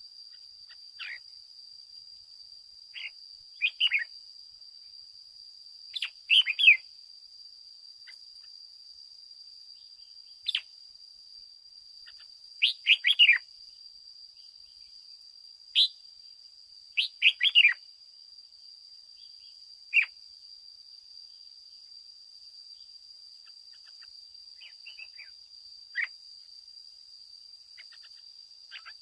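Red-whiskered bulbul singing: short, sweeping chirpy phrases every one to few seconds, with irregular pauses between them. A steady, thin high-pitched whine runs underneath.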